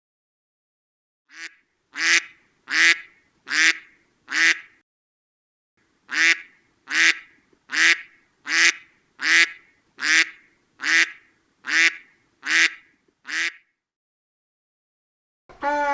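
Duck quacking: a run of five loud quacks, a pause of about a second and a half, then ten more at a steady pace of roughly one a second.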